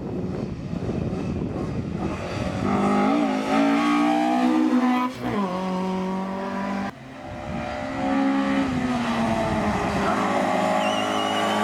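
Hillclimb race car engine revving hard at full throttle, with a sudden drop in pitch about five seconds in. The sound breaks off abruptly a little past halfway, and another car's engine builds up again from about eight seconds, pulling hard with a faint high tyre squeal near the end.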